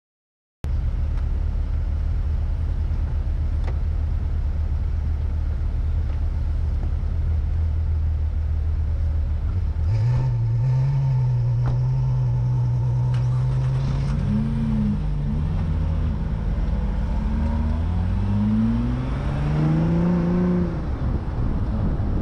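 Car engine running, heard from an onboard camera while driving, starting under a second in. A steady low drone steps up in pitch about ten seconds in, then rises steadily as the car accelerates before dropping back near the end.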